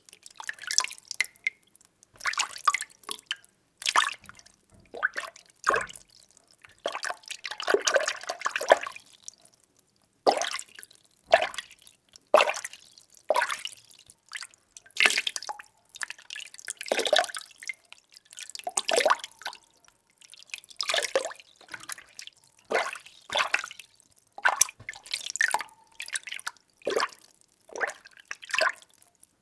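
Water being stirred by hand, short swishing splashes coming roughly once a second with a longer swirl about eight seconds in.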